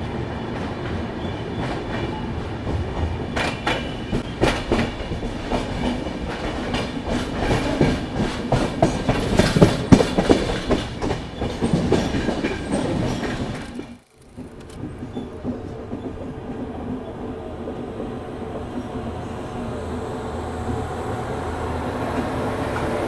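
Passenger train coaches running on the rails, heard from an open coach door, the wheels clattering over rail joints and points with a run of sharp knocks. About two-thirds of the way through the sound cuts and gives way to a quieter, steady rolling noise as the train runs alongside a platform.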